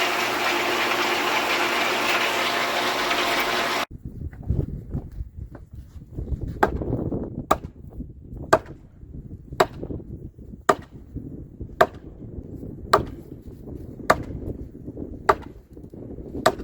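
A water pump running steadily with a hum for about four seconds, then an abrupt change to a manual post pounder striking a fence post, about ten sharp clanks roughly a second apart, with wind rumbling on the microphone.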